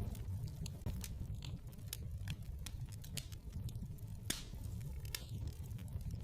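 Wood fire crackling in a fireplace: irregular sharp pops and snaps over a steady low rumble, with one louder snap a little after four seconds in.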